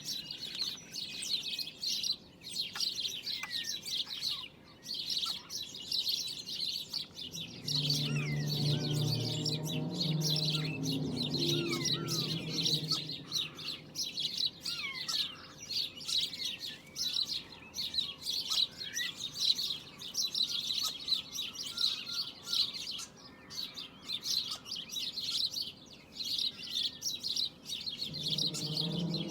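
Dense chorus of many small birds chirping rapidly and continuously. A low drone made of several steady tones joins in from about 8 to 13 seconds in and again near the end; its source is unexplained.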